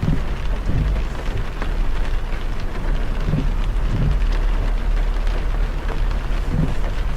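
Heavy rain drumming on a moving car over a steady low road rumble. A few soft low thumps come through at intervals.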